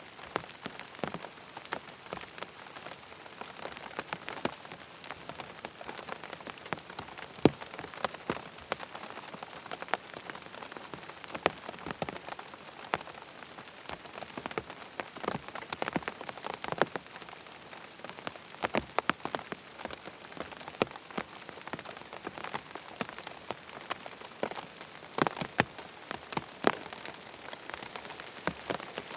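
Steady rain falling on a surface, with many sharp, irregular drop impacts ticking over an even hiss.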